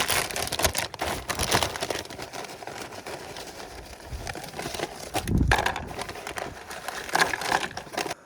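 A bag of chips crinkling and rustling while chips crackle and rattle as they are handled, in a dense run of sharp crackles that stops abruptly at the end.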